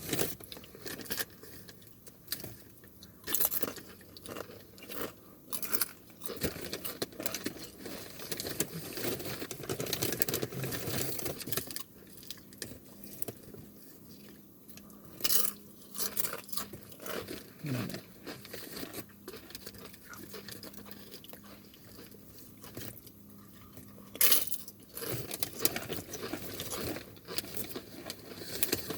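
Close-up crunching and chewing of chips: sharp, irregular crunches every few seconds between softer chewing.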